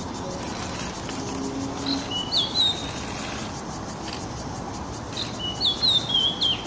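Oriental magpie-robin giving short, sliding whistled chirps in two brief clusters, one about two seconds in and another near the end, over a steady background hiss.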